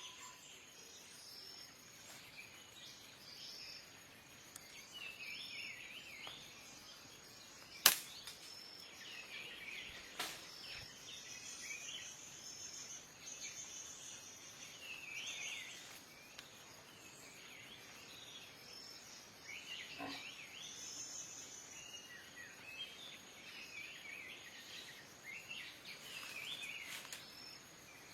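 Small birds calling repeatedly in short chirping phrases. A single loud sharp crack about eight seconds in is the loudest event, and fainter sharp snaps follow near ten and twenty seconds.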